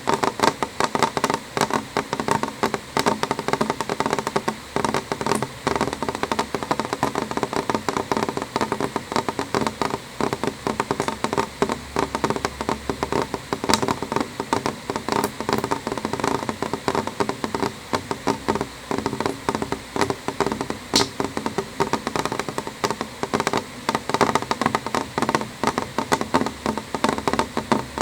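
Rain on a window: a dense, irregular stream of drops hitting the glass, steady throughout.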